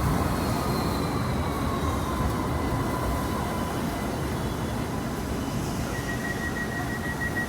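Electric tram running, a steady low rumble with a motor whine that falls slightly in pitch over the first few seconds. A steady high tone comes in about six seconds in.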